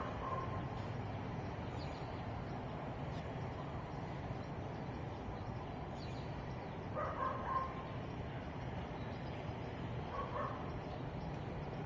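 A dog barking a few short times, a cluster of barks about seven seconds in and a couple more near the end, over a steady low outdoor rumble.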